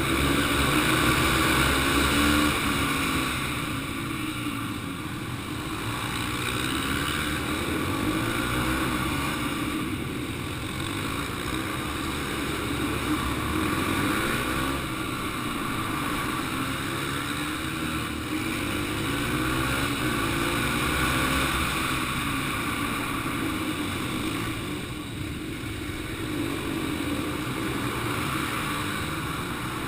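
Yamaha TT-R125 dirt bike engines (small single-cylinder four-strokes) running hard, revving up and falling off in a regular cycle about every five seconds.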